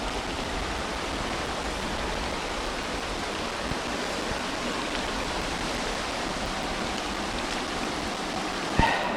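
Steady rushing noise of a flowing creek mixed with heavy rain falling, with a single short knock near the end.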